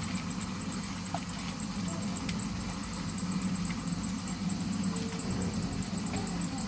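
A steady low engine hum, with a few faint short chirps and a faint high ticking.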